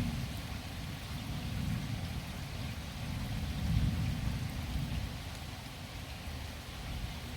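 Thunder rolling over steady rain: a low rumble that swells about three to four seconds in and then fades, under a constant hiss of rain.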